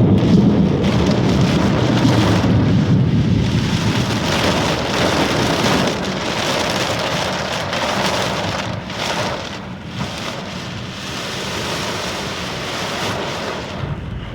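Heavy tropical-storm rain pelting a moving car, heard from inside the cabin, mixed with road and tyre noise. It is loudest over the first six seconds or so, then settles into a steady downpour.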